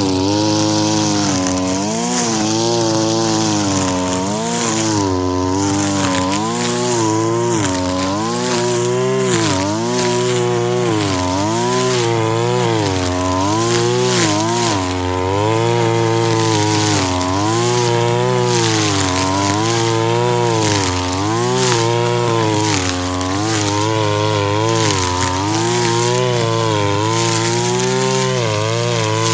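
Brush cutter engine running at full throttle, its pitch dipping and recovering about once a second or so as the spinning blade bites into grass on each sweep.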